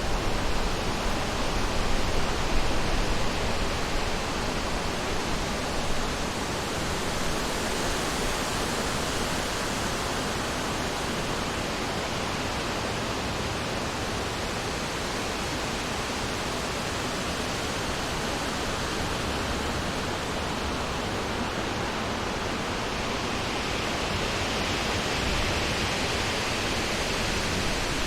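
Wind blowing through summer forest trees, a steady rush of noise in the leaves that swells and eases gently without a break.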